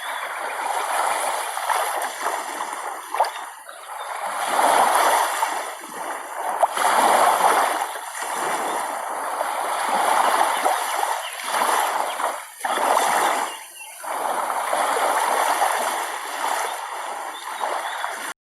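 Water splashing and washing in surges that swell and fall every second or two, like small waves breaking on a shore; it cuts off suddenly near the end.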